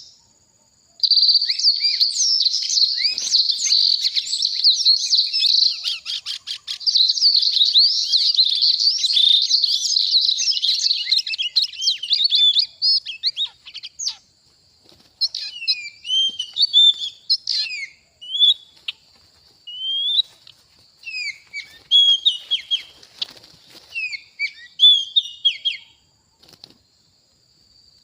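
Oriental magpie-robin (kacer) singing: a dense stream of rapid high whistles and chattering notes for about twelve seconds, then shorter separate phrases with gaps, stopping a couple of seconds before the end.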